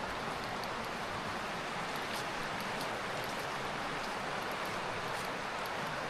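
Mountain river water rushing steadily: a constant, even hiss with no breaks.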